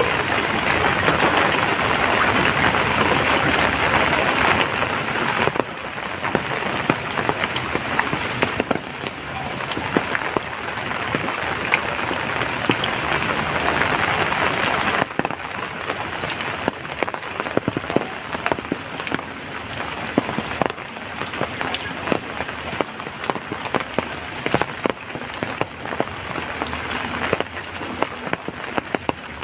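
Steady rainfall with many individual drops tapping close by. The rain's hiss drops suddenly about five seconds in and again about halfway, after which separate drips stand out more clearly.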